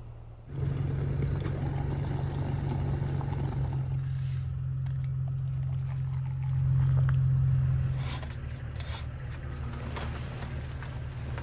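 Truck engine running; its note steps up suddenly about half a second in and drops back to a lower idle about eight seconds in.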